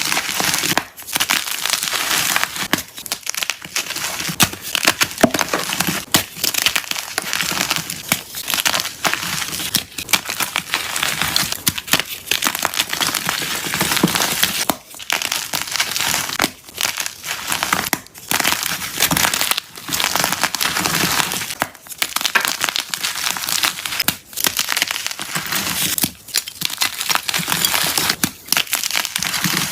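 Jumbo blocks of unpolished gym chalk being crushed: a dense, crunchy crackling that runs on with many brief pauses and sharper cracks between.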